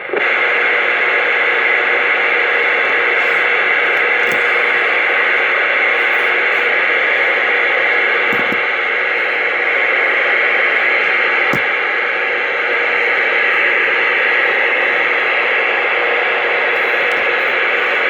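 CB radio receiver hissing with steady static, a faint steady tone under it. Any distant station is too rough to make out.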